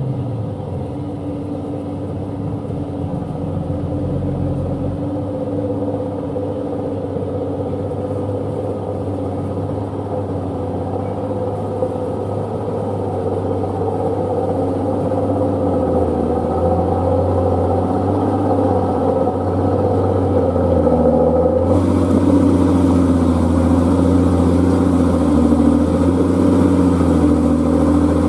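Old Hino truck's diesel engine running under load, a steady low engine note that grows gradually louder, with a hiss joining about three-quarters of the way through.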